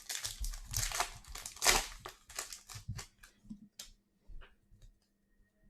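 Crinkling of a plastic trading-card pack wrapper being handled, loudest about two seconds in, followed by a few light clicks and taps of cards being handled.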